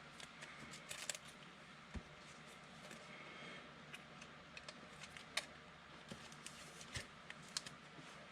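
Faint, scattered clicks and light slides of trading cards being handled and sorted, with a few sharper taps.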